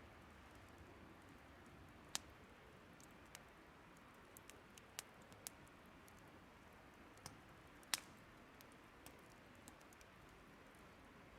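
Wood fire crackling faintly: irregular sharp pops and ticks of burning firewood, two louder ones about two and eight seconds in, over a faint steady rush of a river.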